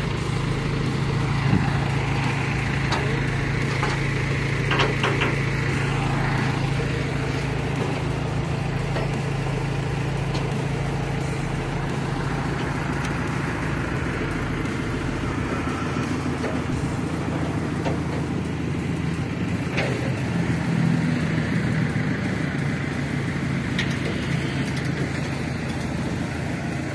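A motor-vehicle engine idling steadily, a low hum that eases off about halfway through, over a constant background rumble.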